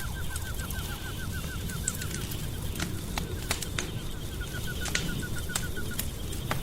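Wood fire crackling in a fireplace, with sharp pops over a low steady rumble. Over it, a rapid chirping trill of about seven notes a second runs twice, breaking off for about a second in between.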